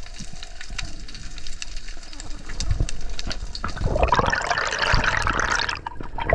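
Water noise from a diving camera: faint clicks and a low rumble at first, then from about four seconds in loud bubbling and splashing.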